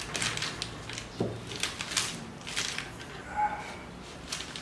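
Hand-handling noise of CNC Z-axis parts during assembly: a series of short rustles and clicks, with one brief squeak about a second in.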